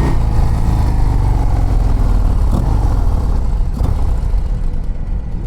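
2024 Harley-Davidson CVO ST's V-twin engine running while the bike is ridden, with a heavy low rumble; its pitch eases down in the first second or two as the throttle comes off.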